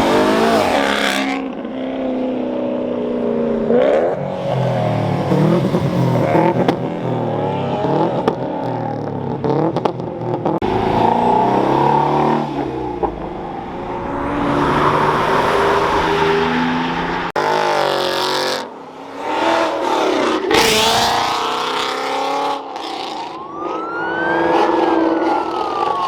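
Cars accelerating and revving hard as they drive past one after another, engines climbing and dropping in pitch. Near the end a police siren starts to wail.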